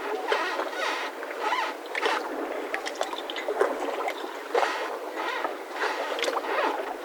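Mooring ropes of moored boats creaking and squeaking as the boats rock, with short irregular squeaks coming about one or two a second.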